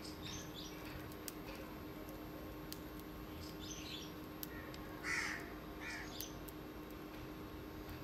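A few short, harsh bird calls, the loudest about five seconds in, over a faint steady hum.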